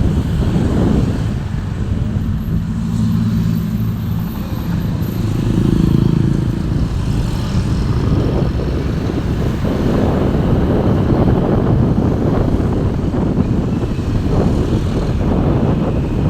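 Road vehicle noise: an engine hum passes between about two and five seconds in, followed by dense rumbling road and wind noise.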